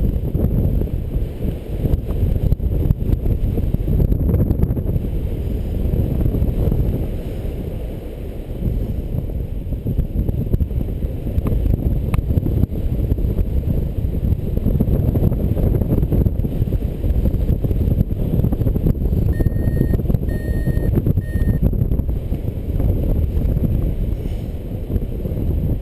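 Strong wind buffeting the microphone, a loud, steady low rumble, during a paraglider flight in strong wind. About 20 seconds in, three short electronic beeps sound on the same pitch.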